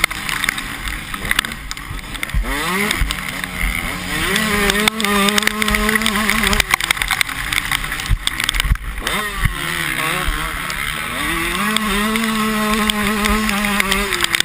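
Motocross bike engines revving up and down as they are ridden, the pitch climbing several times and holding high between drops.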